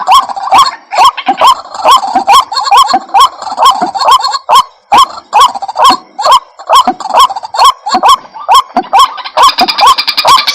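White-breasted waterhen calling: a loud, fast run of short rising notes, about three a second. Near the end a busier, higher chatter joins in.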